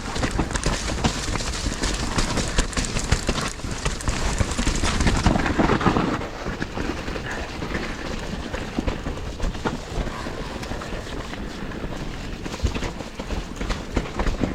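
Mountain bike rolling down a muddy trail: a continuous rattle and clatter of the bike over the ground with wind noise on the mic, louder and harsher for about the first five seconds, then calmer.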